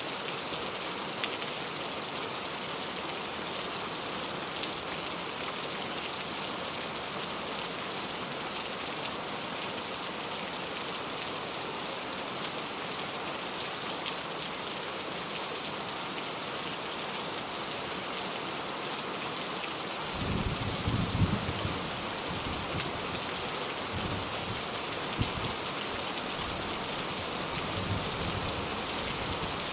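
Steady rain falling, an even dense patter. About two-thirds of the way in, an uneven low rumble comes in under the rain and continues.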